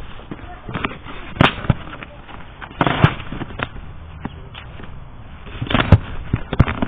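Irregular sharp knocks and bangs, a few loud ones about a second and a half, three seconds and six seconds in, with lighter clatter between.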